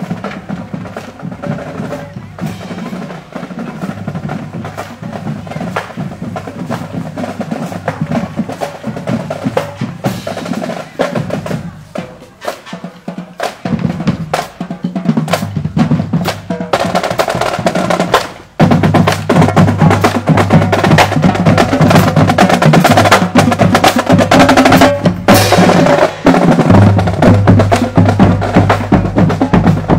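Marching band drumline playing a parade cadence: snare drums with rolls and rim clicks over bass drums. About 19 s in the playing gets much louder and fuller.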